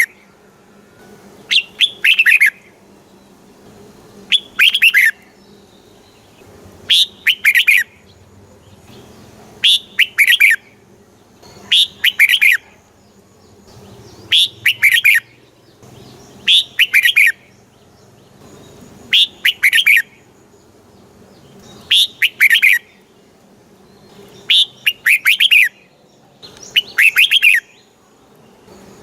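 Red-whiskered bulbul singing: short, bright phrases of quick descending notes, repeated about every two and a half seconds.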